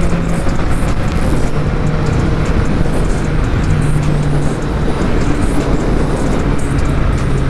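Motorcycle engine running at a steady cruise under a steady rush of wind noise, its hum shifting pitch in small steps.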